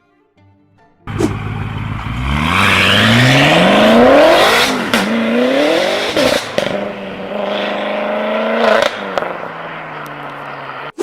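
V8 car engine accelerating hard. It starts about a second in and climbs in pitch for about three seconds, drops at a gear change and climbs again, with a few sharp cracks from the exhaust around the shifts. It cuts off suddenly.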